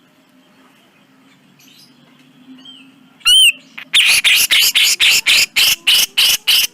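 Grey-cheeked bulbul (cucak jenggot) calling: one loud, arched whistled note about three seconds in, then a rapid run of rough, rasping notes, about four a second.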